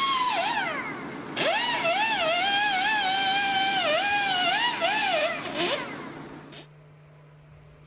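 A high-speed power tool's motor spinning up with a rising whine, running with its pitch dipping and recovering again and again as it is loaded, then spinning down and stopping about six seconds in.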